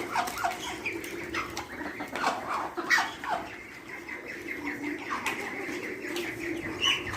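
A flock of hungry farmyard poultry calling over one another at feeding time, many short falling calls in quick succession over a steady low hum.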